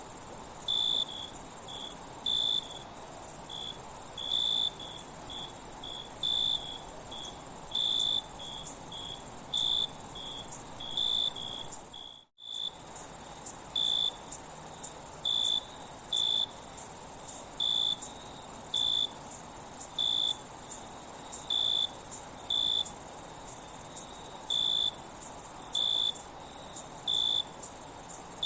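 Night insect chorus: a steady high-pitched insect trill with crickets chirping over it in short, irregular chirps, roughly one or two a second. The sound cuts out for an instant about twelve seconds in.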